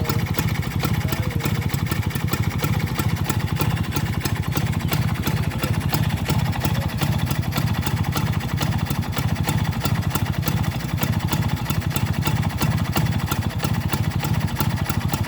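Vespa scooter engine with a newly fitted intake, idling steadily with a fast, even beat of firing pulses.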